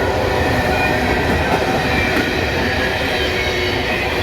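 Freight train rolling past close by: a loud, steady rumble of steel wheels on the rails, with faint thin wheel squeal over it.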